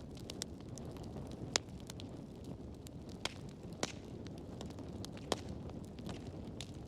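Wood fire burning in a fireplace: a low steady rush of flame with sharp pops and crackles scattered irregularly, the loudest pops about a second and a half in and around three, four and five seconds in.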